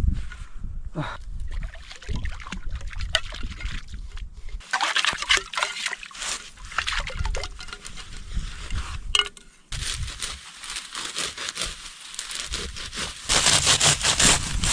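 Water trickling and sloshing, in uneven stretches with scattered small clicks and knocks.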